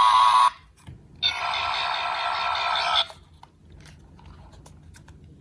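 Two added comic sound effects: a short one with a rising pitch, then a longer warbling, buzzy one lasting about two seconds, followed by faint small clicks.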